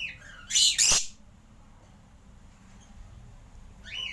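Caged aviary birds calling: a short chirp, then a loud harsh squawk about half a second in, and another chirp near the end.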